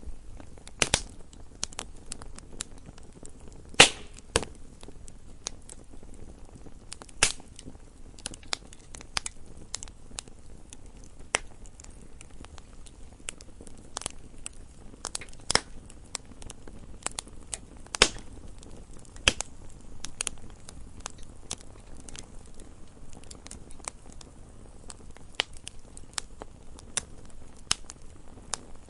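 Wood fire burning in a fireplace: irregular crackling and snapping of burning logs, with a few louder pops, over a low steady hiss of flame.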